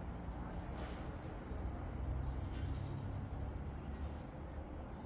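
Engine idling low and steady, with a few faint clicks.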